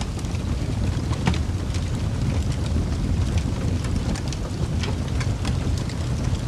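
Wood fire burning in a fireplace: a steady low rumble of the flames with sharp crackles and pops scattered irregularly through it, one louder pop about a second in.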